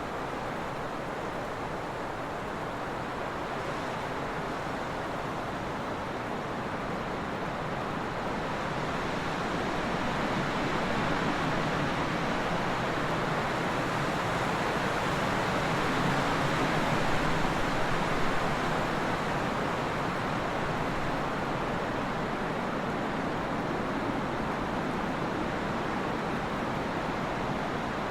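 Trade wind blowing steadily, a continuous rushing that swells slowly to a peak a little past the middle and then eases off.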